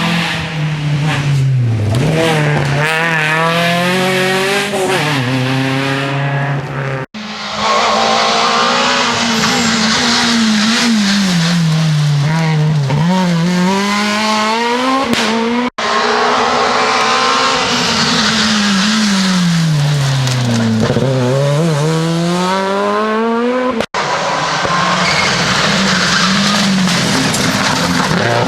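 Rally cars being driven hard on a stage, with engines revving up and down through the gears and lifting off into corners, and tyres squealing. It is several short clips spliced together, with abrupt cuts about 7, 16 and 24 seconds in.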